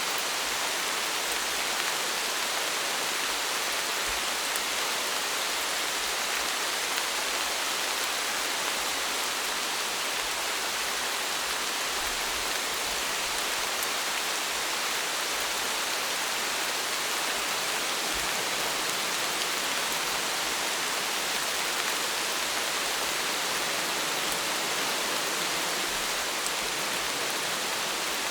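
Steady, even rainfall: a continuous hiss of rain with no let-up.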